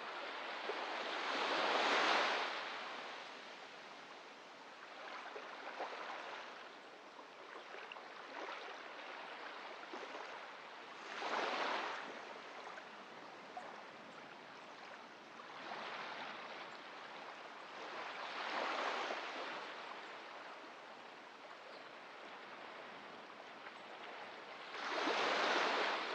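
Sea waves breaking and washing up on a beach shore. Five washes swell and fade over a steady hiss of surf, the loudest about two seconds in and near the end.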